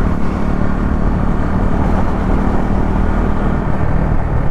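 KTM Duke 390 single-cylinder engine running steadily at a constant road speed, with an even rush of wind and road noise.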